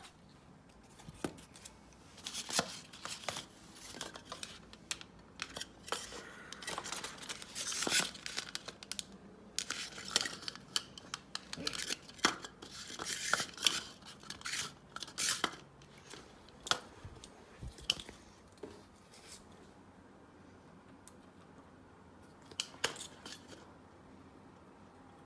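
Handling noise: a run of irregular sharp clicks, scrapes and rustles. These thin out to a few isolated clicks about two-thirds of the way through.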